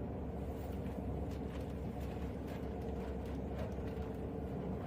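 Interior running noise of an electric multiple-unit train in motion: a steady low rumble with a constant hum and a few faint clicks.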